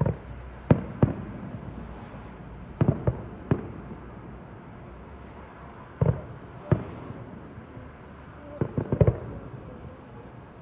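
Fireworks bursting nearby: a series of sharp bangs at irregular intervals, with a quick volley of four or five near the end.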